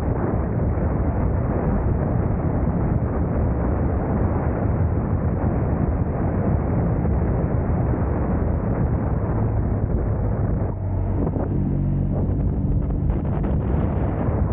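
Riding a motorcycle at road speed, with wind rushing over the microphone and burying the engine. About eleven seconds in the wind eases and the engine's steady drone comes through, along with a thin high-pitched tone near the end.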